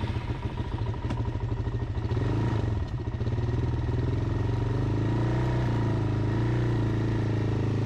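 Dirt bike engine running at a fairly steady speed under way, with small rises and falls in pitch.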